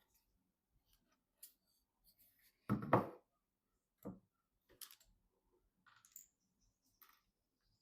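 Scattered light clicks and taps from parts or packaging being handled, with one louder, short knock about three seconds in.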